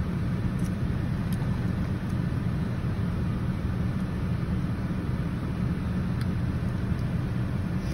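Steady low rumble inside a parked car's cabin, typical of the engine idling, with a few faint clicks.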